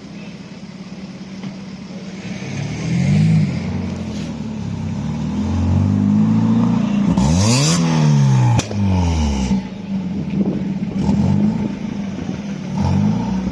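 A car engine revved hard several times, its pitch climbing and dropping, with one quick drop and climb about two-thirds of the way through.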